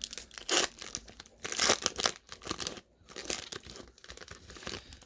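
Foil wrapper of a Panini Prizm basketball card pack crinkling and tearing as it is handled and opened, in irregular rustles with several louder bursts.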